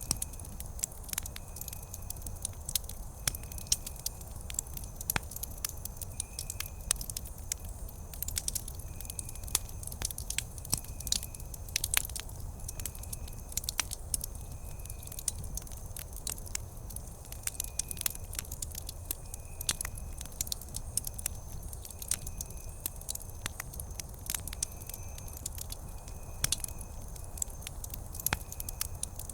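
Wood campfire crackling with frequent sharp pops over a low, steady rumble of flames. A faint, short high chirp repeats about once a second behind it.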